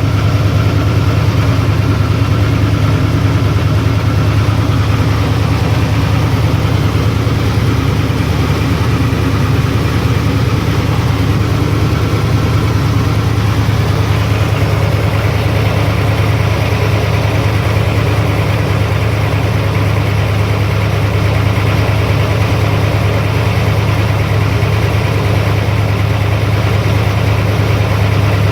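BluePrint crate engine idling steadily with a knock from the bottom end, which the owner takes for a connecting rod or crankshaft issue.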